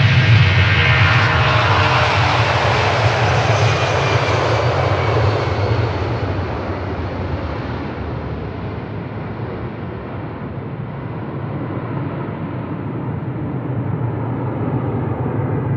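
A jet airliner's engines passing close by, their pitch sliding down as the aircraft moves away. The sound fades into a steady low rumble.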